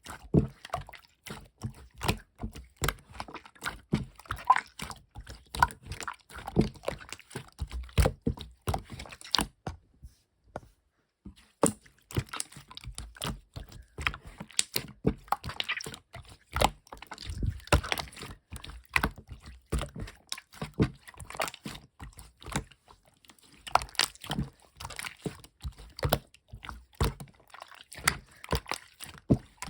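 Clear slime being squished and pressed by hand, making quick, irregular wet clicks and small pops, with a short pause about ten seconds in.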